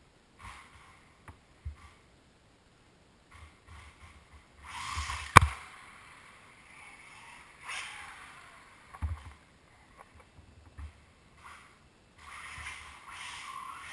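Losi Mini 8ight RC buggy driving indoors: bursts of motor and tyre noise that come and go as it accelerates and slows, with one sharp knock about five seconds in.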